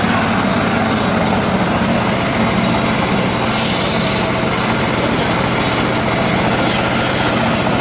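Engine-powered saw running steadily, with a brief higher-pitched hiss about three and a half seconds in.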